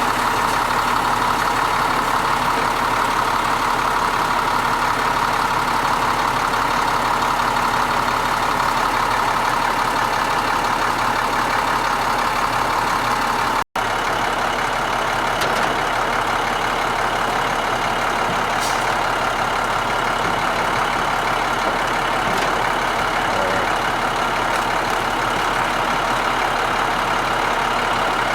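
Truck engine running steadily to power the crane hydraulics, with a brief break about halfway through.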